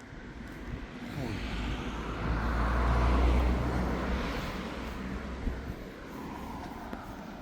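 A car driving past, its rumble and tyre noise swelling to a peak about three seconds in and then fading away.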